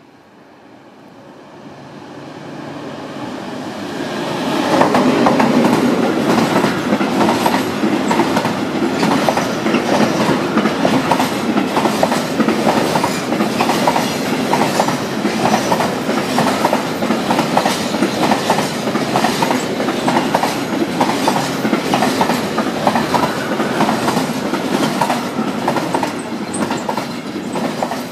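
Long intermodal freight train approaching and passing close by. The sound builds over the first few seconds as the train nears, then settles into a steady, rhythmic clickety-clack of the wagon wheels over the rail joints as the container wagons roll past.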